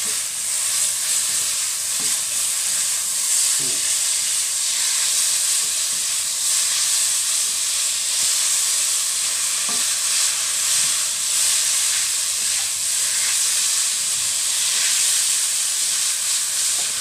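Yellow egg noodles and pork mince sizzling steadily as they are stir-fried in a non-stick pan, tossed with two spatulas that knock lightly against the pan a few times.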